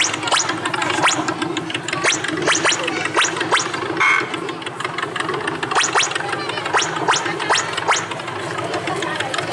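Playful sound effects of sharp taps, clicks and scratches, several a second, timed to a mime's panel-repair act, over steady background music and ambient hum.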